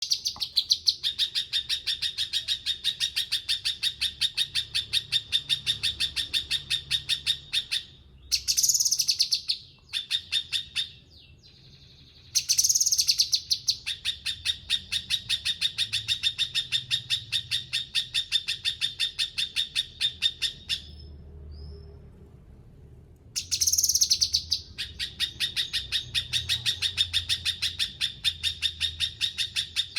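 Cucak kinoi songbird singing hard: long runs of rapid, evenly repeated high chirps, about five a second, broken by a few louder flourishes and two short pauses.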